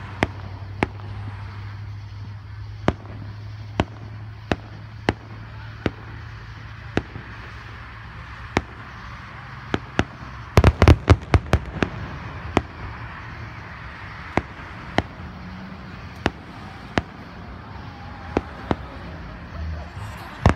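Aerial fireworks display going off at a distance: single sharp bangs about once a second, with a rapid cluster of louder bangs around the middle.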